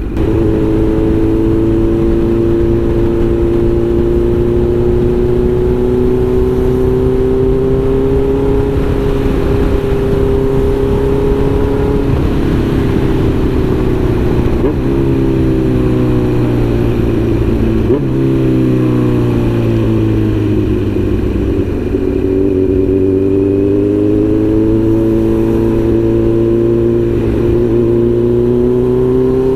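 Kawasaki Z900's inline-four engine running under way, its note climbing slowly, dropping in a few steps in the middle as the bike slows, then rising again toward the end as it speeds up.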